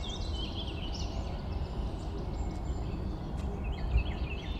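Small birds chirping and twittering in quick, high, repeated calls, busiest in the first second and again from about three and a half seconds in, over a steady low rumble.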